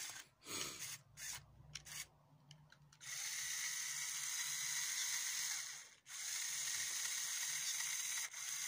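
Small electric drive motor of a brick-built R/C car whirring through its gears. After a few short blips it runs steadily from about three seconds in, stops for a moment near six seconds, then runs again.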